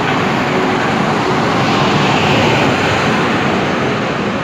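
Steady, loud rumble and rush of a passenger train running, heard close up through an open coach door or window while passing right alongside another train.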